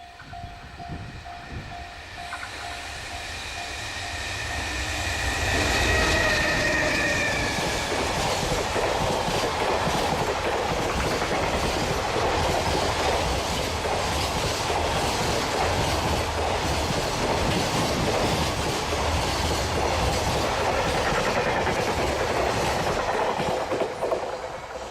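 An electric-hauled freight train passing close by. A two-tone horn sounds from about two seconds in for several seconds. After that comes a long, loud rumble and clatter of the wagons over the rail joints, which drops away near the end.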